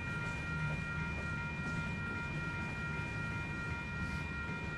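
Freight train of open-top hopper cars rolling past: a steady low rumble of wheels on rail, with a steady high-pitched whine held over it.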